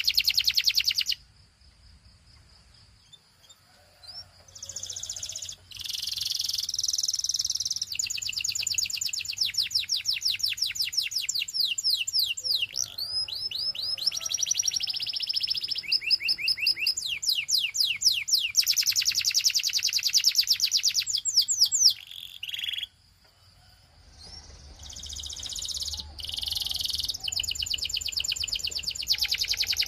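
Canary singing long, fast trills of rapidly repeated high notes, with a couple of short pauses between phrases.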